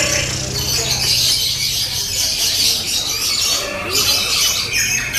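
Several lovebirds singing at once in a dense, continuous high-pitched chatter of fast trills and squawks, with a low steady hum underneath.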